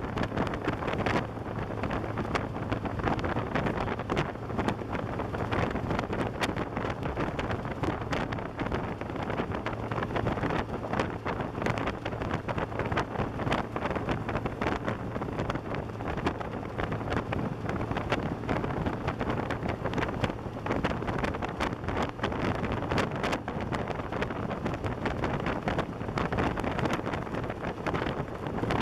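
Wind buffeting the microphone of a camera on a moving motorcycle, with constant gusty crackle and a steady low engine hum underneath.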